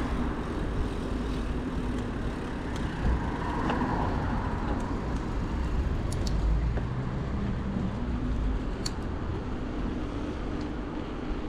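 City street traffic heard from a moving bicycle: a steady mix of passing cars and low rumble, with wind on the microphone.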